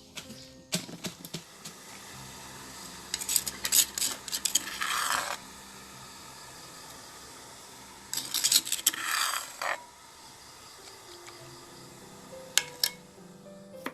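Kitchen utensils clinking and scraping against dishes, in two short busy bursts of clatter a few seconds apart, with a few single clicks near the end.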